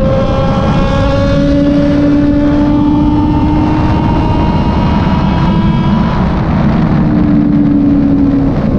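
Kove 450RR motorcycle engine running steadily under way, its note holding and rising slowly over a rush of road and wind noise. The engine note breaks and jumps to a different pitch near the end.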